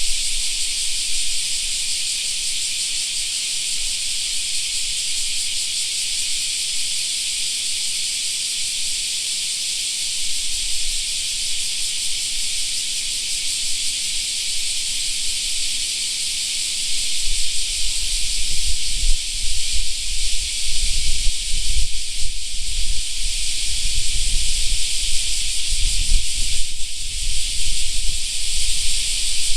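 A chorus of cicadas buzzing: a dense, steady, high-pitched shrill with no pauses. From a bit past halfway, an uneven low rumble joins in underneath.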